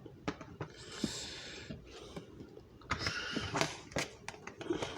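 Kitchen handling sounds as tomatoes are put back into a pot: scattered light clicks and knocks, with two brief stretches of rustling or scraping, one about a second in and one about three seconds in.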